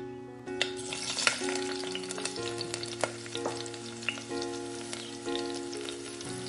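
Chopped okra sizzling and crackling in hot oil in a tiny steel pan, the hiss starting about half a second in as the pieces land, with many small pops, and a small spoon stirring them near the end.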